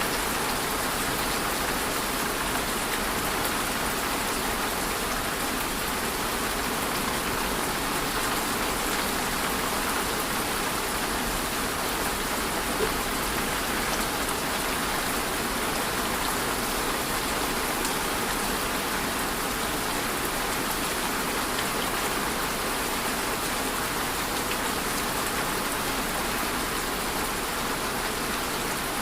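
Steady rain falling, an even hiss of many drops with no letup, and one slightly louder drop or tap about 13 seconds in.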